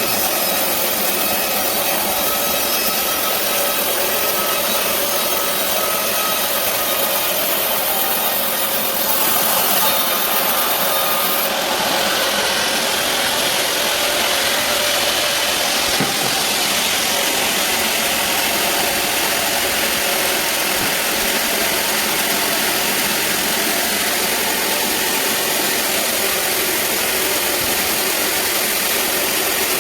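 Band sawmill running steadily while sawing a large teak log, its sound changing about eleven seconds in.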